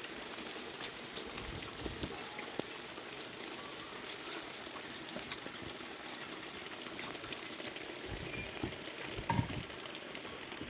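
Steady rain falling, with scattered drops ticking sharply, and a brief dull knock about nine seconds in.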